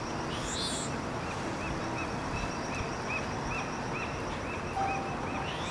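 Outdoor harbour ambience: a steady wash of background noise with a bird's short chirps repeating about three times a second, and a brief higher bird call near the start and another at the end.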